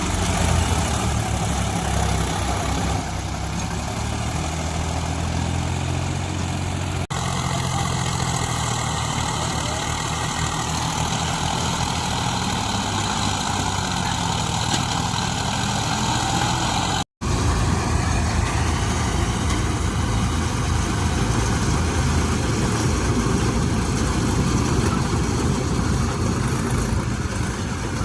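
Diesel tractor engine running steadily, with the sound cutting out for an instant about two-thirds of the way through.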